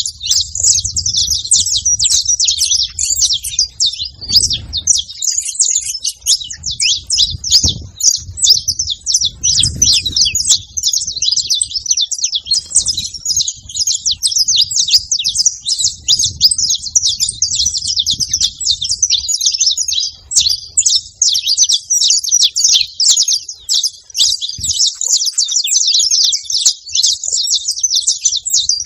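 A flock of saffron finches chirping and singing together, many birds overlapping in a dense, continuous high-pitched chatter.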